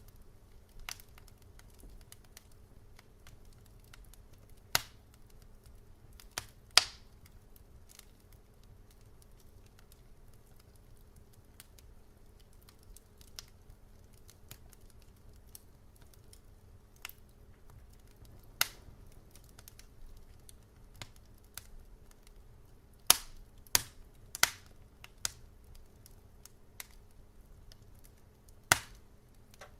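Wood fire crackling: sharp, irregular pops and snaps, bunched into a few clusters, over a low steady hum and rumble.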